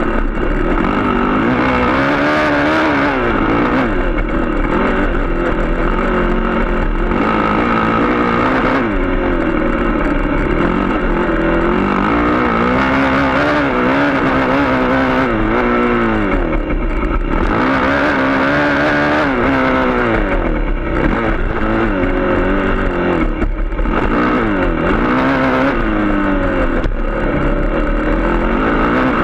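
Dirt bike engine heard up close from the bike, revving up and falling back again and again as the rider accelerates, shifts and backs off.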